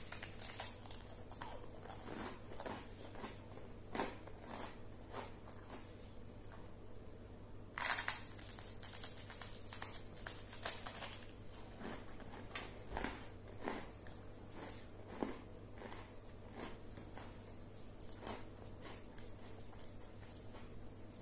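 Crisp toast being chewed close to the microphone: irregular small crunches, with a louder burst of crunching about eight seconds in.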